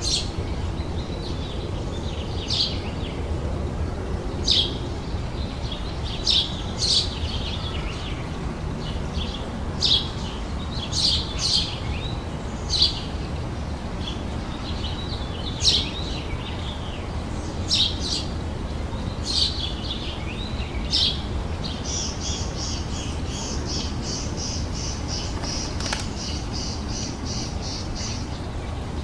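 Songbirds chirping outdoors in short, scattered high calls, with a fast trill of rapidly repeated notes lasting about six seconds near the end, over a steady low background rumble.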